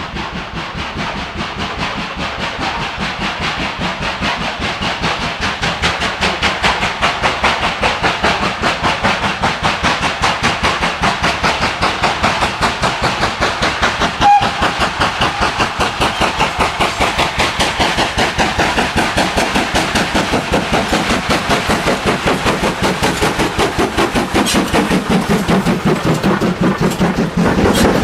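GWR 42xx 2-8-0T tank locomotive working under steam, its exhaust beating in a rapid, even rhythm that grows louder over the first several seconds and then holds steady. A short sharp sound cuts in briefly about halfway.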